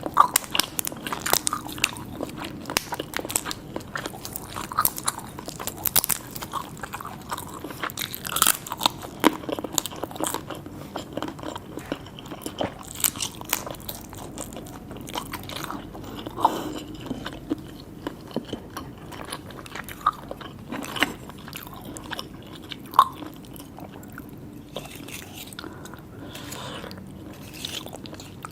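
Close-miked mouth sounds of eating seafood: biting, crunching and wet chewing with many sharp clicks. They are densest in the first half and thin out toward the end.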